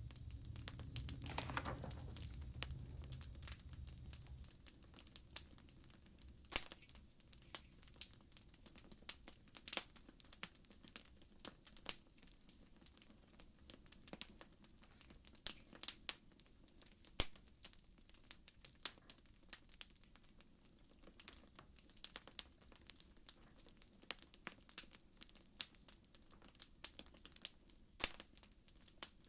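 Wood fire crackling, with irregular sharp snaps and pops over a soft low rumble that fades during the first few seconds.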